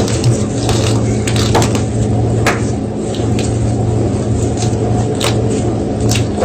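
Gym chalk block being crunched, with irregular sharp crackling snaps and a gritty crumbling texture, over a steady low hum.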